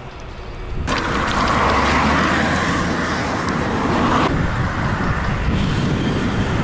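Wind rushing over an action camera's microphone together with road and traffic noise while cycling along a highway. It jumps suddenly louder about a second in.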